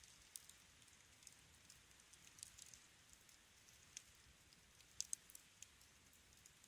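Wood fire crackling softly: scattered sharp pops over a faint hiss, the loudest a close pair about five seconds in.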